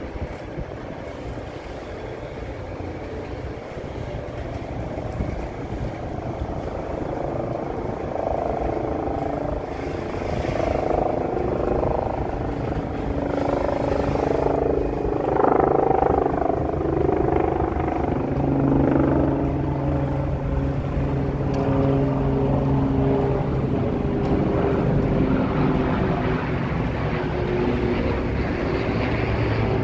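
A freight train of autorack cars rolling past on the rails: a steady low rumble with humming tones that come and go, growing louder over the first half.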